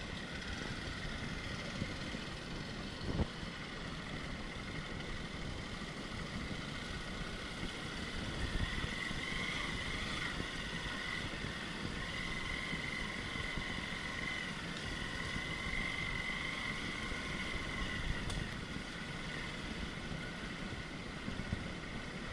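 Off-road vehicle engine running steadily on a rough forest track, with a steady high-pitched drone above it that grows louder for several seconds in the middle.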